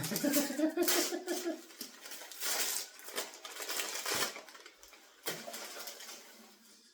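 Wrapping paper and packaging rustling and crinkling as a gift is unwrapped and handled, in irregular bursts. A short hummed vocal sound comes near the start.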